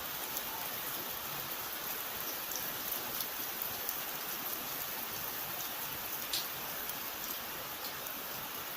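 Steady rainfall, an even hiss with scattered individual drops striking close by. One sharper drop hit stands out about six seconds in.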